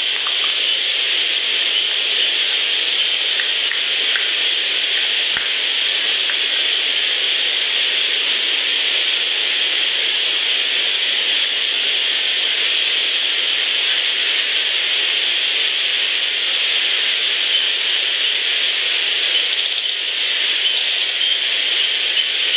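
Amplified outdoor field recording from a small voice recorder: a loud, steady hiss throughout, with a few faint clicks near the start.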